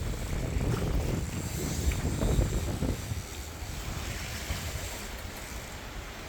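Wind buffeting the microphone and waves washing past a sailboat's hull on a downwind sail. The rush is louder for about the first three seconds, then eases.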